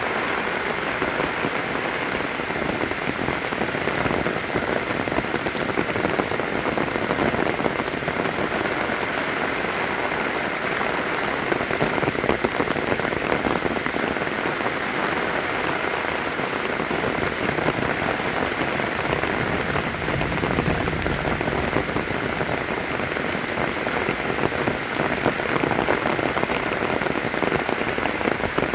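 Steady rain falling on surfaces, with a dense patter of individual drops.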